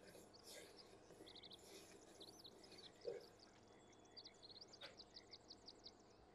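Near silence, with faint high chirping of small birds in the background, many short calls that grow busier in the second half.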